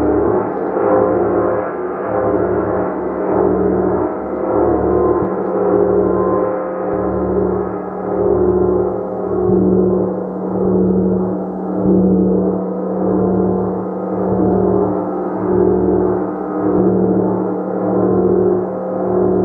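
Gong played continuously with a steady rhythm of soft mallet strokes, swelling roughly once a second. The strokes keep up a dense, sustained wash of overtones over a steady deep tone.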